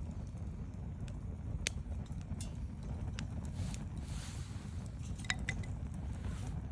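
Wood campfire burning, with a steady low rumble and a few sharp crackles and pops of the burning wood.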